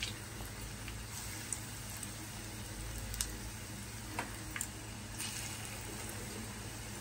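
Gram-flour-batter onion pakoras deep-frying in hot oil in a pan: a steady sizzle with a few sharp pops.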